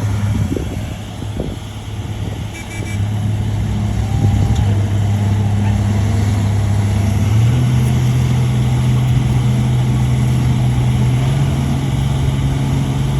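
Shantui bulldozer's diesel engine running under steady load at a constant pitch, its revs stepping up slightly about halfway through.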